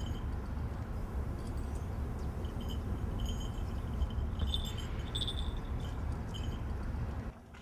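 Light metallic jingling, a few short clusters, over a steady low wind rumble; both cut off abruptly about seven seconds in.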